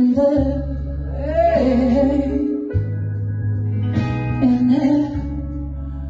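Electric lead guitar playing a slow minor-blues solo, with long held, bent notes over a steady bass and band backing. It comes in sharply at the start.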